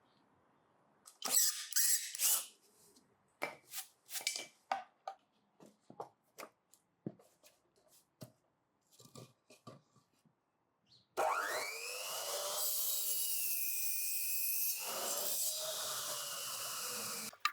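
A run of knocks, clatters and scrapes from tool work, then a power tool starts about eleven seconds in. Its motor rises in pitch as it spins up, runs for about six seconds with its pitch dipping slightly under load, and then stops.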